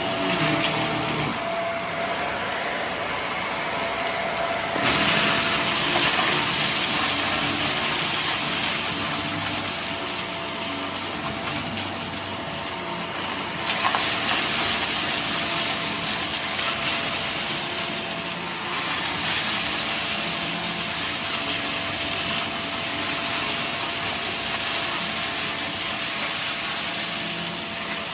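Vacuum cleaner running steadily, a loud rushing hiss over a faint steady hum, growing louder and hissier about five seconds in and again about halfway through.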